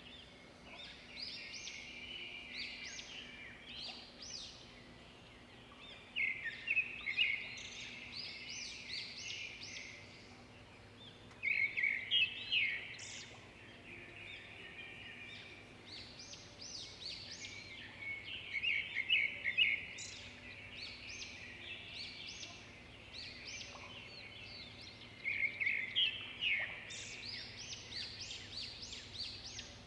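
Birds singing: bursts of rapid, high chirping trills that come again every several seconds, over a faint steady hum.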